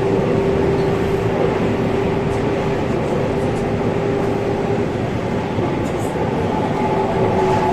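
Subway train running between stations, heard from inside the car: a steady rumble of wheels and car body with a constant motor hum that weakens about five seconds in.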